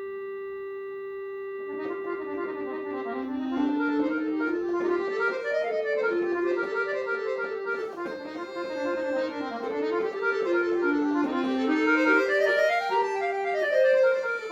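Solo accordion: a long held chord, then from about two seconds in fast running passages of notes that rise and fall in waves, growing louder.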